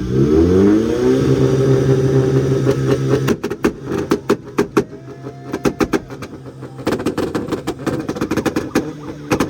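Car engine revved up and held at a steady high rpm for about two seconds, then a long run of sharp pops and bangs from the exhaust, heaviest near the end: the rapid-fire backfire of a two-step launch limiter.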